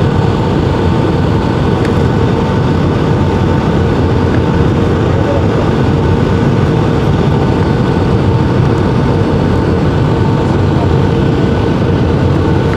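Steady cabin noise inside a Boeing 757 airliner: a loud, even rush from the Rolls-Royce engines and airflow, with a couple of steady tones running through it.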